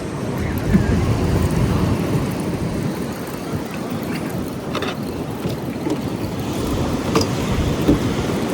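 Wind buffeting the microphone: a steady, gusting low rumble, with a few faint clicks about halfway through and near the end.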